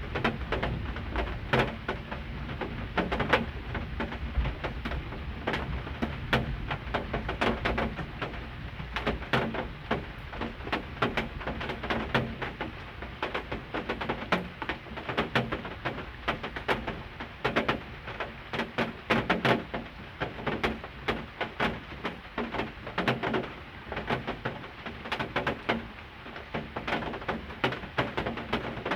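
Heavy rain, with drops striking a hard surface close to the microphone in a dense, irregular patter of sharp taps over a low rumble.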